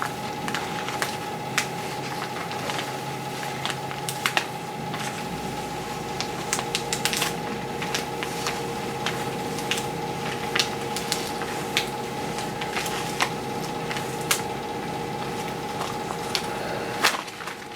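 Scattered light ticks and crackles of a vinyl stencil and its film being handled and worked down by hand onto the wing. Under them runs a steady hum with a few fixed tones, and a low rumble joins about five seconds in and stops near the end.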